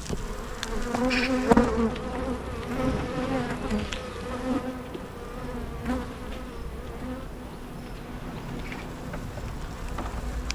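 Honey bees buzzing around an open hive during a frame inspection: a steady hum of many wingbeats with wavering pitch, louder in the first few seconds. A few light clicks sound over it, the sharpest about a second and a half in.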